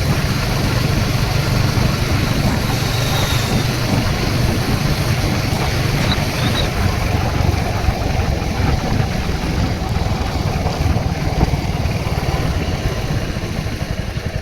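Royal Enfield Hunter 350's single-cylinder engine running steadily while riding, mixed with heavy wind rush on the microphone.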